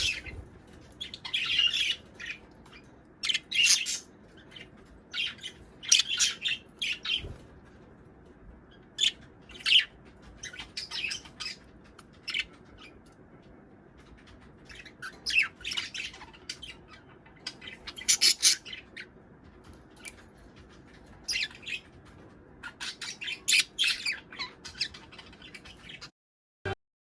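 Budgerigars chattering and squawking in short bursts of high chirps, every second or two, with quiet gaps between. The sound cuts off abruptly about a second before the end.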